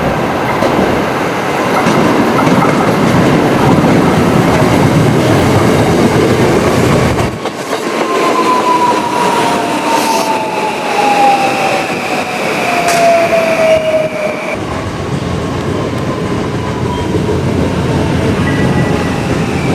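Two-car 521 series electric train running into the station and braking, with wheel and rail noise and a motor whine falling steadily in pitch as it slows.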